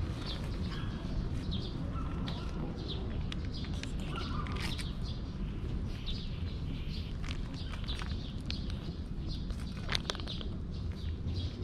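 Small birds chirping over and over above a steady low outdoor rumble. About ten seconds in come a few sharp clicks and a rustle as wet cat food is squeezed from a pouch into a steel dish.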